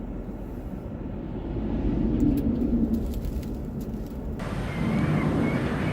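Log truck driving, a steady low engine and road rumble that swells in the middle. About four seconds in the sound cuts abruptly to a brighter, hissier mix of the same rumble.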